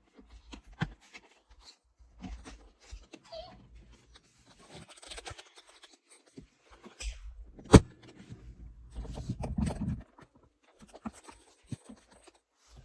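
Handling of small plastic accessories and packaging: scattered light clicks and rustles, with one sharp loud click near the middle.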